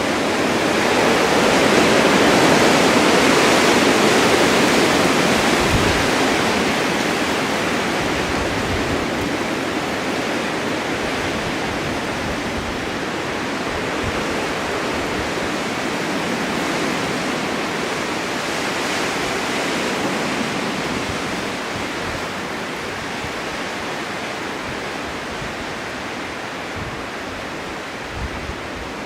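Blizzard wind blowing snow in a steady rush, swelling in a gust over the first few seconds and then slowly easing.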